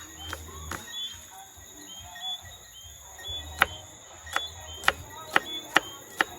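Knife chopping vegetables on a cutting board: a few sharp knocks early, then a quicker run of about two a second in the second half. A steady high-pitched insect drone runs underneath.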